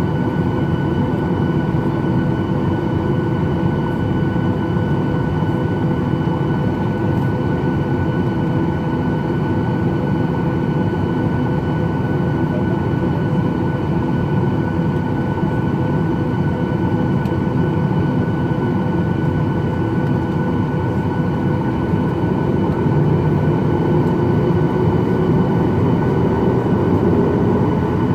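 Cabin noise inside a Boeing 737-800, heard from a window seat: the steady hum and whine of its CFM56-7B engines. About three-quarters of the way through, the engine tone rises and grows a little louder as thrust is added.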